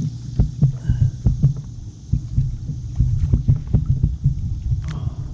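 Irregular low thumps and knocks on a kayak's hull and in the water, several a second, as a large catfish is handled alongside the boat, over a steady hiss.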